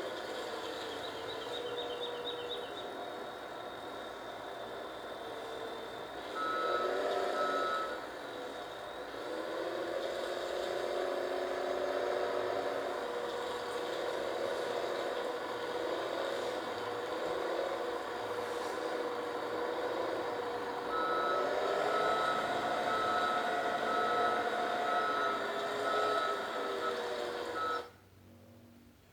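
Heavy vehicle engine running while its reversing alarm beeps in evenly spaced pulses, a short spell about six seconds in and a longer one from about 21 seconds. The sound cuts off abruptly shortly before the end.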